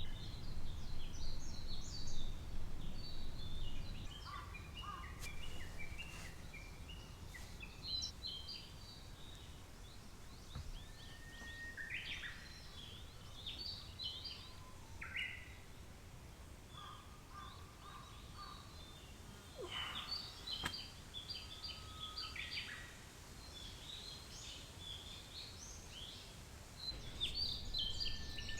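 Wild birds singing and calling, several short chirping and trilling phrases one after another, over a low steady background rumble.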